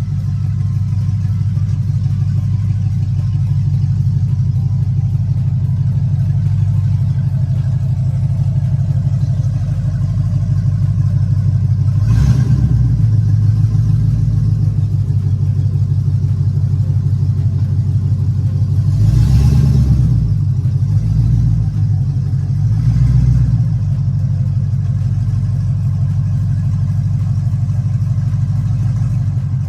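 LS-swapped box Chevy's V8 engine running steadily, with three brief revs about twelve, nineteen and twenty-three seconds in.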